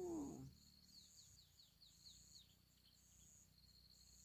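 Faint insects chirring in on-off pulses, with a quick run of short, falling bird chirps about a second in. The tail of a cat's meow fades out at the very start.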